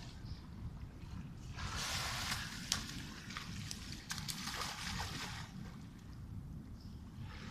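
Galápagos sea lions splashing and sloshing in the water, with a few sharp slaps of flippers, for a few seconds around the middle, over a steady low rumble.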